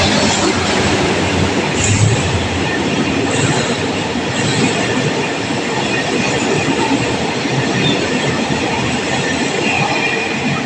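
A train running past at close range: a steady, loud rumble of wheels on rails, with faint high wheel squeal near the end.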